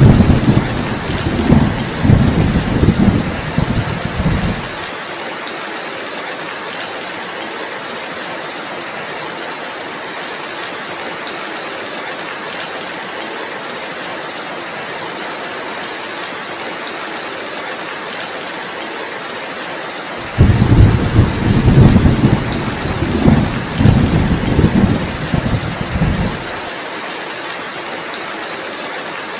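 Heavy rain falling steadily, with two low rolls of thunder over it. The first is already rumbling at the start and stops about five seconds in; the second comes in about twenty seconds in and rumbles for about six seconds. Each cuts off abruptly.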